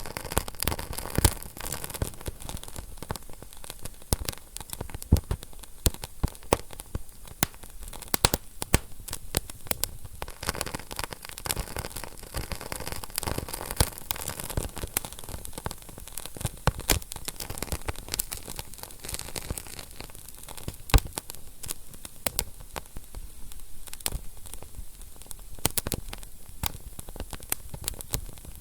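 Wood fire in a fireplace crackling: dense, irregular sharp pops and snaps over a soft steady hiss of the flames.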